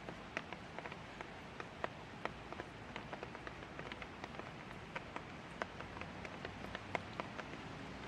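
Light rain falling steadily, a soft even hiss with individual drops ticking sharply and irregularly, several a second, on a nearby surface.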